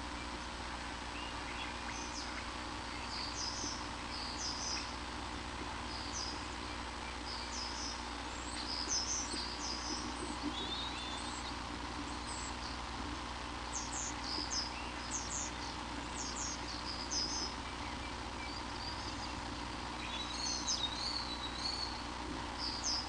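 Bird chirping: short, high-pitched notes in scattered clusters, over a steady background hiss and hum.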